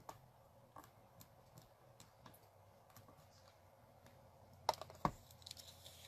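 Ink pad being dabbed onto rubber stamps: faint scattered taps, then louder, quicker clicking from near the end, with one deeper knock about five seconds in.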